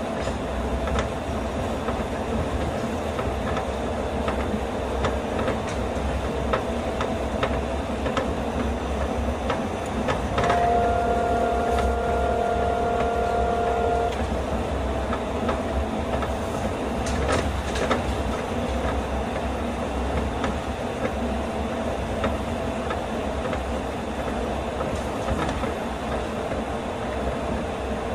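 Astram Line 6000 series rubber-tyred guideway train running, heard from inside the car: a steady rumble with scattered light clicks. About ten seconds in, a steady tone comes up for about three and a half seconds, then drops back.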